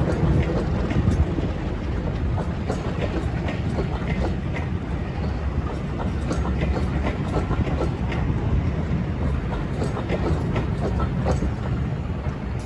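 A train running along track: a steady low rumble with scattered sharp clicks of wheels passing over rail joints.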